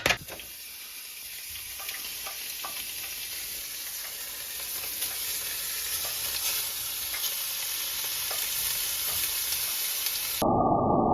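Battered chicken frying in hot oil: a steady sizzle with scattered small pops and crackles. About ten seconds in it cuts off suddenly to a louder, muffled low hum.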